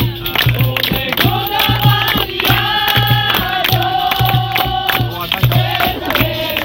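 Capoeira roda music: a group singing in chorus over a regular drum beat and sharp percussion.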